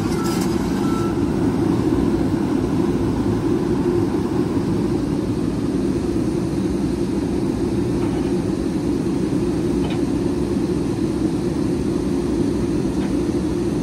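Steady engine and road noise of a truck on the move, heard from inside the cab.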